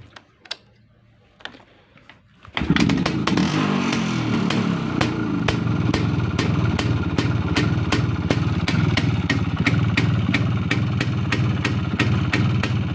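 IZh Planeta 5 motorcycle's single-cylinder two-stroke engine being cold-started on the choke. After a couple of faint knocks it catches about two and a half seconds in and runs steadily, with a regular clicking over the engine note.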